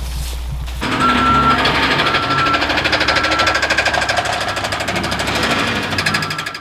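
A fast mechanical rattle that starts about a second in, with a short high beep sounding about once a second and fading out.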